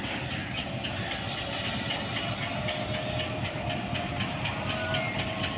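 The 18 Down Millat Express passenger train rolling into the station, its wheels clattering rhythmically over the rail joints above a steady rumble. Thin squealing tones come in during the second half.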